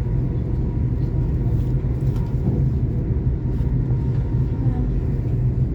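Steady low rumble of a GWR Class 800 IET train running on the line, heard from inside the passenger coach.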